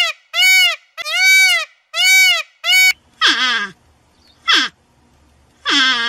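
Peacocks calling: a run of about five loud, identical honks, each rising and falling in pitch, in the first three seconds. Then three harsher calls about a second apart, each dropping steeply in pitch.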